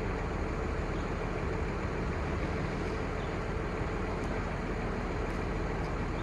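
Crane truck's 5.9L Cummins six-cylinder diesel engine running steadily, with a constant hum.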